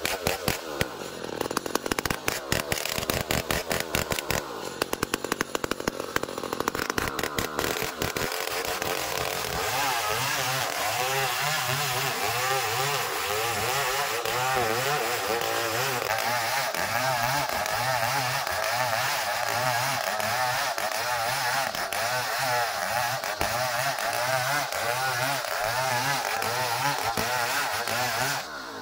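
Sawmill saw running and cutting a long ulin (Bornean ironwood) log. For the first several seconds there is a rapid clatter, then the sound settles into a steady machine sound with a wavering pitch and a slow, regular pulse.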